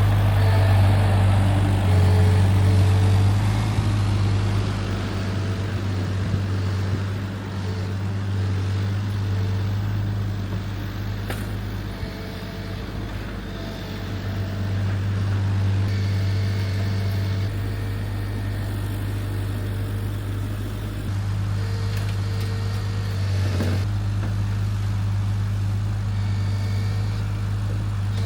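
An engine running steadily with a low, even hum, its tone shifting slightly a few times.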